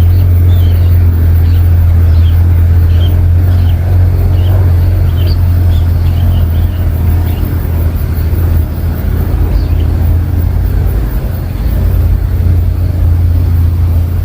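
A steady low rumble throughout, with faint, short, high bird chirps dotted over it during the first half or so.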